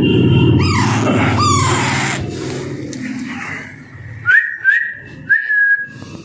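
Alexandrine parakeet chick calling: two falling squawks about a second in, then three short, loud whistled calls near the end. A low hum underneath fades out after about three seconds.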